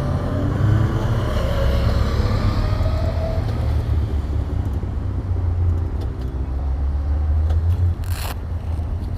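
Motorcycle engines running and revving, their pitch rising and falling in the first few seconds and then settling into a steady low drone. A brief swishing noise comes near the end.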